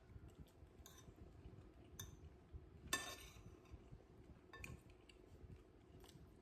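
Tableware clinking during a meal: a handful of light clinks, the loudest about three seconds in with a short ring.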